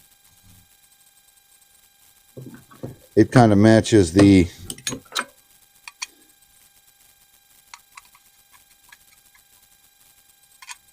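A man's voice makes a loud wordless vocal sound, lasting about three seconds from a couple of seconds in. It is followed by scattered faint light clicks and taps of small rifle parts being handled during AR-15 handguard assembly.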